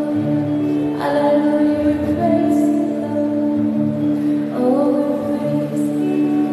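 Slow worship song: a woman singing long, held notes over sustained instrumental chords and a steady bass.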